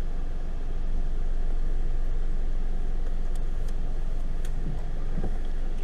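Car driving slowly over a rough road, a steady low rumble of engine and tyres heard from inside the cabin, with a few faint ticks.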